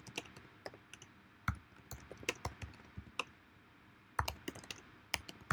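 Scattered, irregular clicks of computer keyboard keys and mouse buttons, a few noticeably louder than the rest.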